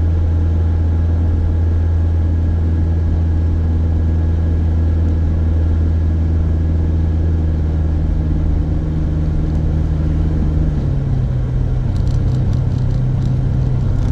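Steady low drone of a small car's engine and road noise heard from inside the moving car. About ten and a half seconds in, the hum changes to a different pitch.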